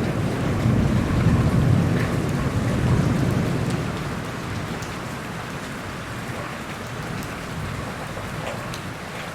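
Steady rain falling, with scattered drop ticks, and a low rumble of thunder that swells in the first few seconds and then dies away.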